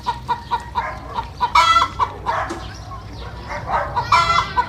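Chickens clucking in a quick run of short notes, then two loud calls about two and a half seconds apart.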